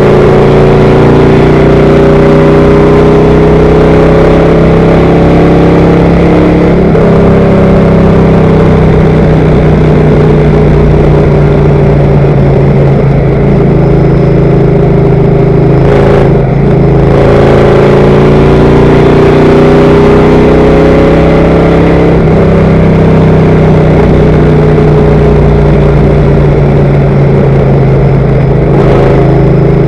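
Race car engine running hard at speed around an oval, heard from inside the car, loud and continuous. Its pitch drifts gently up and down through the laps, with a brief dip about halfway through.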